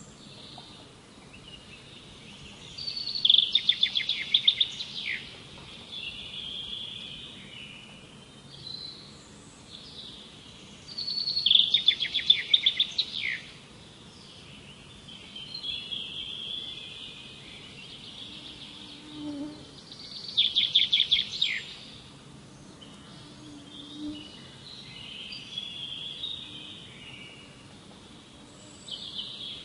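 A songbird singing the same loud, fast trilled phrase three times, about every eight or nine seconds, with softer chirps from other birds in between over a steady background hiss.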